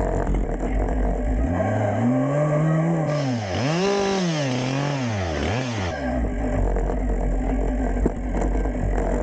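Husqvarna two-stroke chainsaw idling and being revved up and back down several times, the engine note rising and falling with each blip of the throttle.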